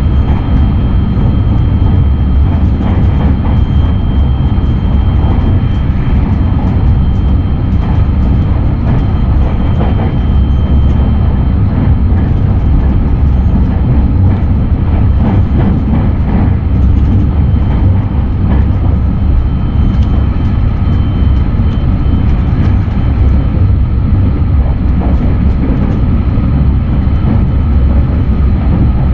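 Steady running rumble of a JR West 683-series limited express electric train cruising between stations, heard from inside the passenger car: wheels on rail and body noise, with a faint steady high whine over it.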